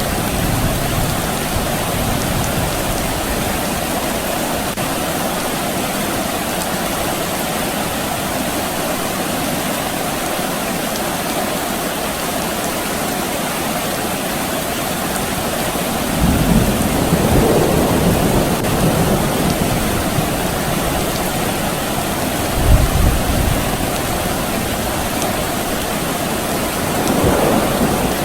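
Steady rain hiss with low rumbles of distant thunder, one swelling about halfway through and lasting a few seconds, a short low rumble a little later, and another building near the end.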